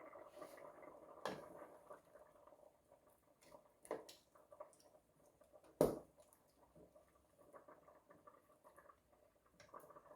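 Pot of soupy dessert bubbling on the stove, a faint crackly patter, with a few sharp knocks of a utensil or lid against the pot, the loudest a little past the middle.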